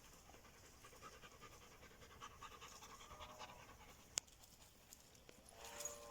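A dog panting faintly in quick, even breaths. There is a single sharp click about four seconds in and a brief pitched sound near the end.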